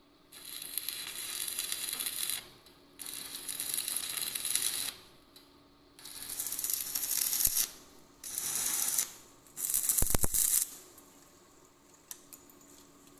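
A workshop tool working in five short bursts of rasping, mostly high-pitched noise, each one to two seconds long with brief pauses between. The last burst ends in a quick run of clicks.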